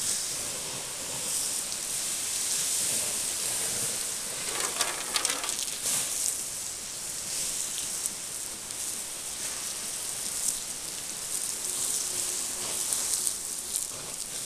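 Small campfire burning, a steady hiss of flames with irregular crackles and pops of the burning wood.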